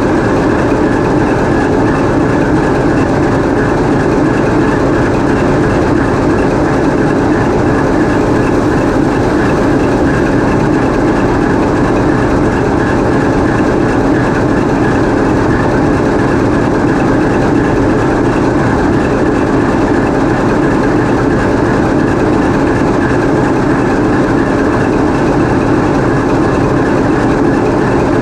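TEP70 passenger diesel locomotive's 16-cylinder 2A-5D49 diesel engine running steadily, heard up close inside the engine room. The loud, even roar holds without a change in pitch or level.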